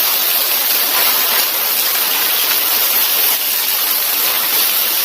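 Heavy rain falling as a steady, unbroken hiss.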